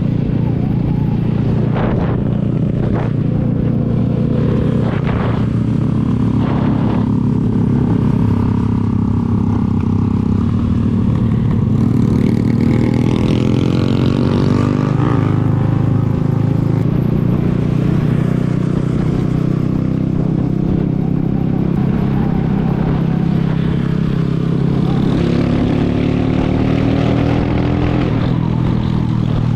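Zanella Sapucai 200 motorcycle engine running while riding, with its pitch rising as it picks up speed a couple of times.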